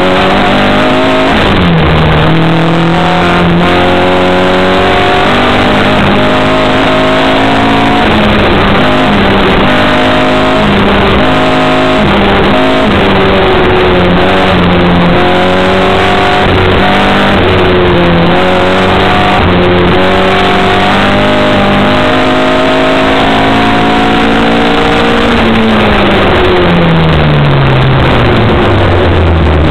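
Opel Kadett's engine driven hard, its revs climbing and dropping again and again as it accelerates and backs off, then falling away near the end as the car slows.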